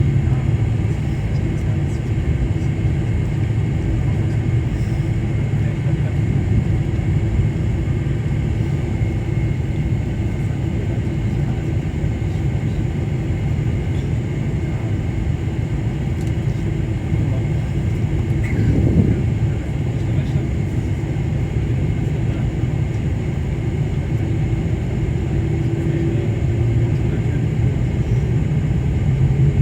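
Boeing 747-400's engines and airflow making a steady low rumble, the deep hum swelling slightly in the last few seconds.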